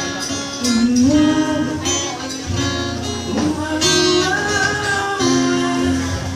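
Acoustic guitar playing with a singing voice holding long notes that glide up and down, without words.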